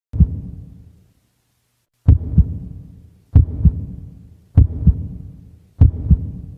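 Heartbeat sound effect: deep double thumps in a lub-dub pattern, five beats, the first alone and then one about every 1.2 seconds, each fading out in a low rumble.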